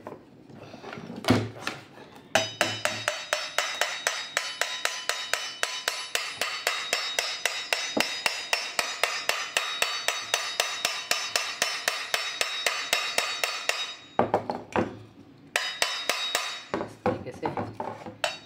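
Rapid, even hammer taps, about five a second, each with a short metallic ring, driving a part of a Karcher WD 3 vacuum cleaner's motor back into its seat. The taps pause briefly about two-thirds of the way through, then resume.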